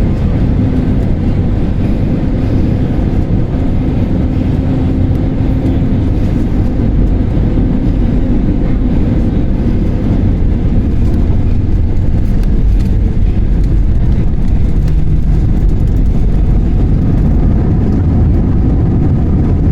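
Steady, loud low rumble of an airliner's cabin as heard from a passenger seat: engine and airframe noise during the landing, with a few faint ticks.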